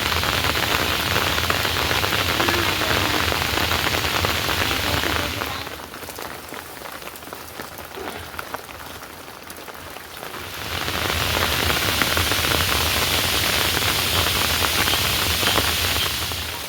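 Heavy rain falling, a dense hiss of many small drop impacts. It eases for about five seconds in the middle, then comes back as strong as before.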